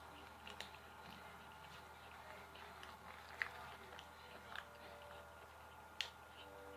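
Faint chewing close to the microphone, with scattered soft mouth clicks and two sharper clicks, one about halfway through and one near the end.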